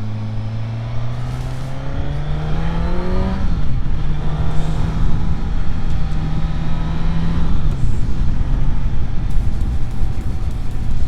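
Suzuki GSX-S1000GT's inline-four engine heard onboard, its pitch rising under acceleration, dropping a few seconds in, holding steady, then falling again near the end, over heavy wind rush on the microphone.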